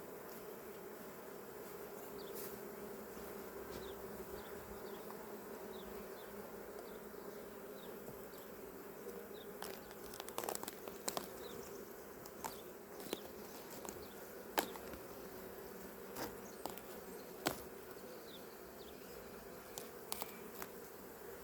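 Honeybees from an opened hive buzzing in a steady hum. From about halfway through, scattered light clicks and knocks sound over the buzzing.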